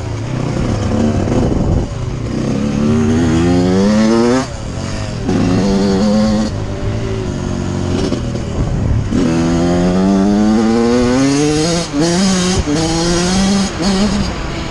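Suzuki RM85's two-stroke 85 cc engine accelerating hard, its pitch climbing again and again as it pulls up through the gears. The throttle is chopped briefly about four and a half seconds in and again near the end.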